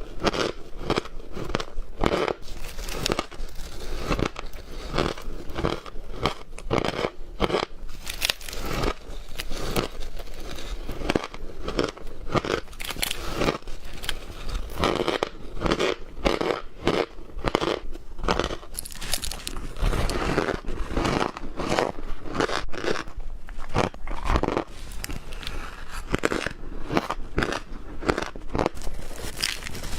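Close-miked crunching and chewing of ice, with quick, sharp crunches following one another throughout.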